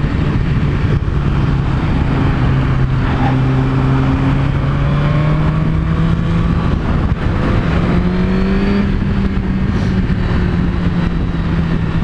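Suzuki GSX-R1000's inline-four engine through a Yoshimura exhaust, running hard at speed with heavy wind noise. Its pitch holds steady, dips for a few seconds, then climbs again about eight seconds in.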